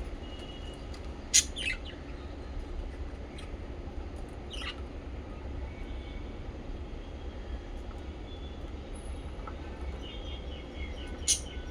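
Small pet parrots giving a few short, sharp chirps, the loudest about a second and a half in and again near the end, with fainter scattered chirps in between. A steady low hum runs underneath.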